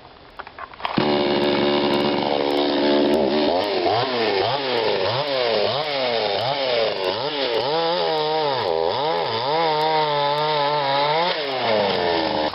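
A chainsaw starts suddenly about a second in and cuts through wood. Its pitch repeatedly dips and recovers as the chain bogs under load and frees again, and it winds down near the end.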